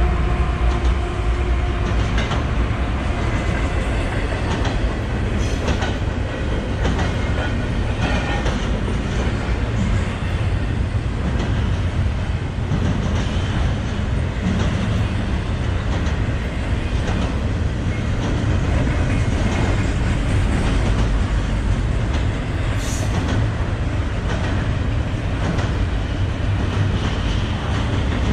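Freight train passing close by: a steady, loud low rumble of rolling cars, with the wheels clicking over rail joints throughout.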